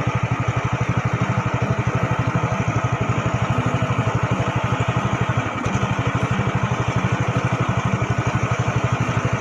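Small boat's motor running steadily at cruising speed, a fast even putter of about ten beats a second.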